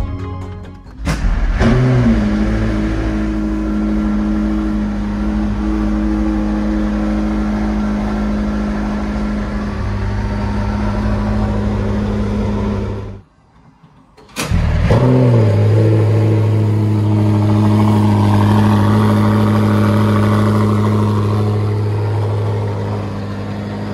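A hypercar engine cold-starts about a second in with a rev flare, then settles to a steady high idle. The sound cuts off after about twelve seconds, and a second start follows with another flare and settles to a steady idle.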